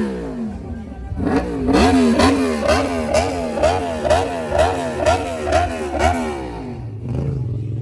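Motorcycle engine revved in quick repeated throttle blips, about two a second, each one rising and falling in pitch. It then drops back to a low idle near the end.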